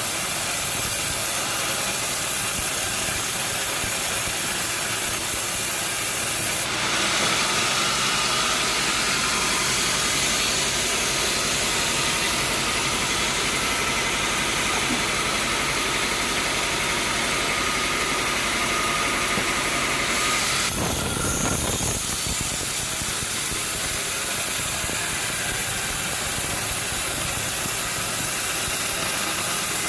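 Sawmill machinery running steadily. About seven seconds in the sound turns brighter and hissier with a faint whine. About twenty-one seconds in it drops back after a brief low rumble.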